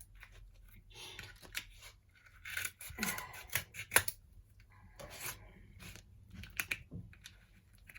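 Scissors snipping at a plastic tofu package, with the plastic crinkling and clicking as it is cut and handled; a burst of sharp snaps in the middle is the loudest part.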